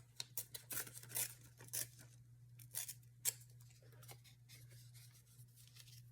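Scissors cutting paper: a run of quick, crisp snips, most of them in the first three seconds or so, then fainter handling.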